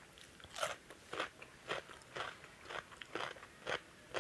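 Close-up crunchy chewing of a bite of crisp raw salad vegetable, about two crunches a second, eight in all.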